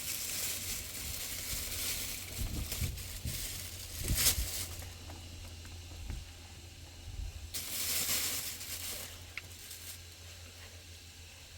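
Hissing, rustling noise in two long stretches with a quieter gap between, over a steady low hum, with a few dull thumps about two to four seconds in.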